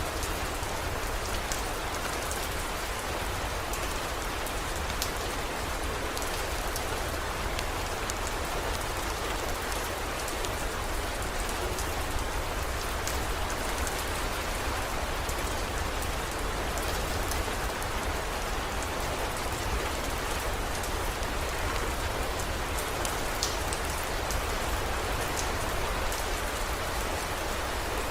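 Heavy rain falling steadily, with scattered sharp drop ticks over an even hiss and a steady low rumble underneath.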